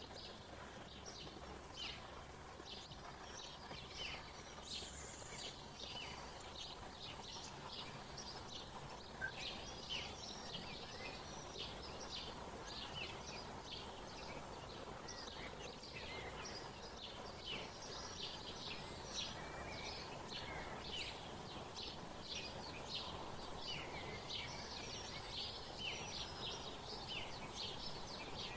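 Small birds chirping: a dense run of short, high calls overlapping each other without a break, over a faint steady background hiss.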